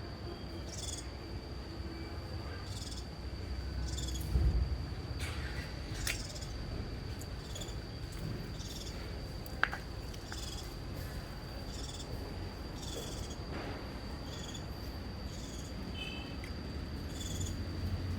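Insects calling: a steady high-pitched tone, with short high chirps repeating about once a second. A low thump comes about four seconds in, and a sharp click near the middle.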